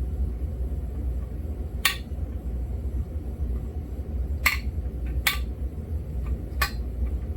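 Four sharp metallic clinks of tools or engine parts being handled and set down on a workbench, over a steady low hum.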